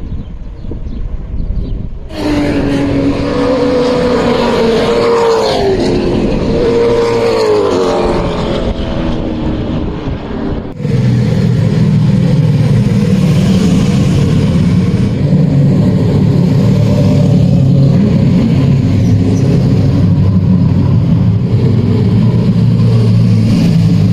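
V8 racing car engine heard on board, revving up and down through the gears. About eleven seconds in, the sound cuts abruptly to a louder, steadier drone.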